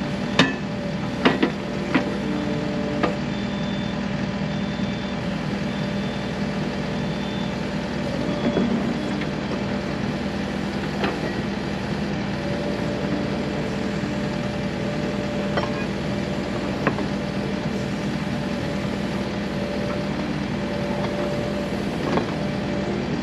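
Takeuchi tracked skid steer's diesel engine idling steadily, with a few sharp metallic knocks, most of them in the first three seconds.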